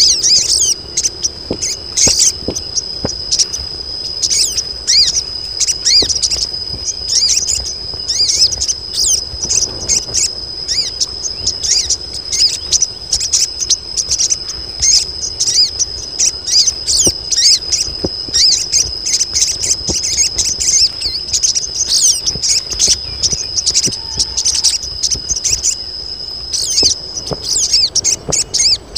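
Colony of female sogon birds chattering in dense, rapid, overlapping high chirps, the calls of females in breeding condition calling for males. A steady high-pitched tone runs underneath.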